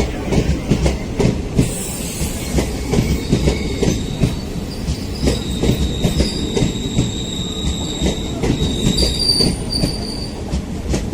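Express train coaches rolling past on a curve, with a dense, irregular clatter of wheels over the rail joints. From about three seconds in, a thin high-pitched squeal of wheel flanges grinding on the curved rail joins the clatter.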